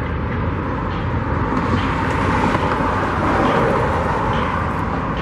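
Road traffic going by, with one vehicle passing close so that the noise swells up about two seconds in and fades again near the end.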